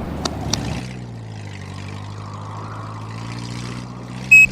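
Vehicle engine running with a steady low hum, after two sharp clicks at the very start. A high electronic beep begins right at the end.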